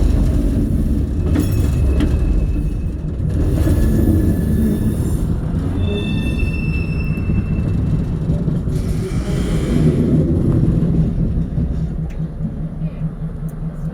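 Train rolling along the track, heard from an open caboose: a steady low rumble of wheels and running gear, with thin high wheel squeals between about four and seven seconds in.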